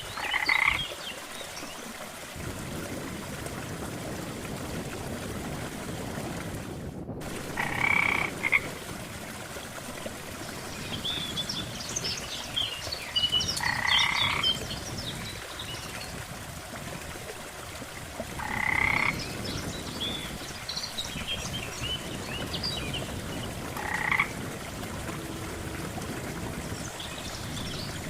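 Frogs croaking at a lake, one pulsed croak roughly every five seconds, with shorter, higher chirping calls in between. A steady low wash of water runs beneath, and the sound cuts out for a moment about seven seconds in.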